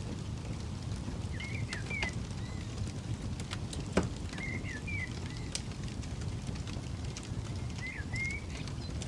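Campfire crackling with scattered sharp pops, the loudest about four seconds in, over a low steady rumble. A bird calls three times in short chirping phrases.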